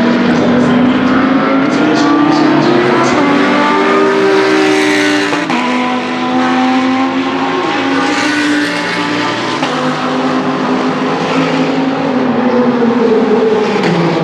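Lamborghini Huracan GT3 Evo's naturally aspirated V10 race engine at high revs on track, its pitch climbing and dropping back at gear changes several times.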